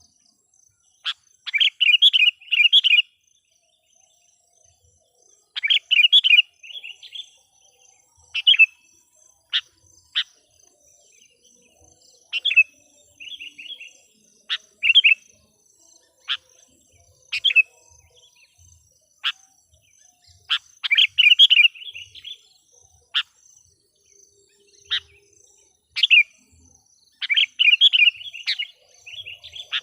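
Sooty-headed bulbul (kutilang) decoy bird calling to lure wild bulbuls: short bubbly chattering phrases alternating with sharp single chip notes, every second or two. A faint steady high buzz runs underneath.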